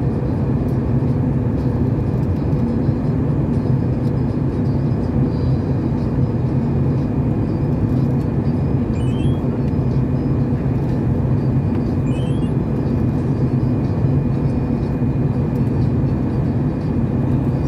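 Airliner cabin noise during descent: the steady roar and low hum of the jet engines and airflow, with a faint steady whine above it. Two faint, short rising electronic blips occur about nine and twelve seconds in.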